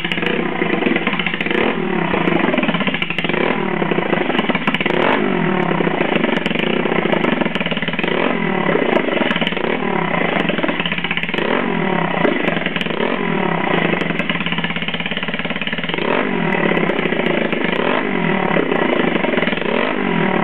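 Yamaha Majesty YP125 scooter's big-bored single-cylinder four-stroke engine, running through a home-built stepped straight pipe, revved up and down over and over. It is loud and obnoxious.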